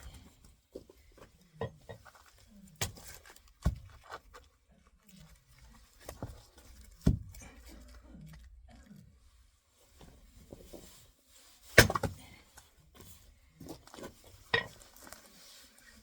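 Oak firewood being split into kindling with a hand axe: irregular sharp knocks and wooden clatter a second or a few seconds apart, the loudest strike in the second half.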